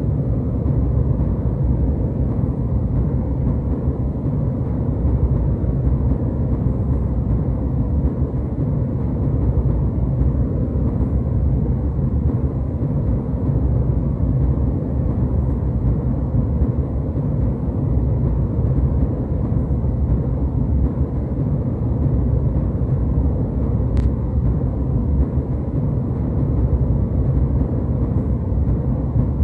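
Jet airliner cabin noise in flight: a steady, deep rumble and hiss of the engines and airflow, unchanging throughout.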